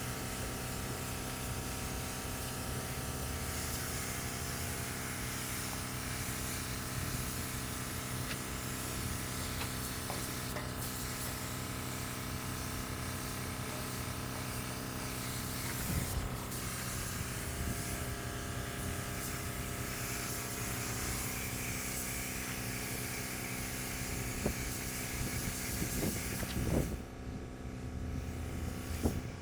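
A steady hiss of compressed air over a constant machine hum made of several steady tones. The hiss cuts off about 27 seconds in, leaving the hum.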